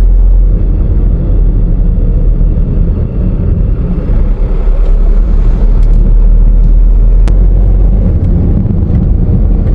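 Steady low rumble of a car driving along the road: engine and road noise.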